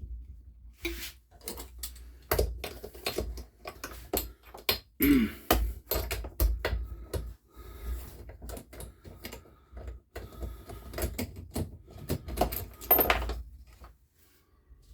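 Irregular clicks, knocks and clatters of hand tools and small engine parts being handled and set down on a workbench, with no engine running.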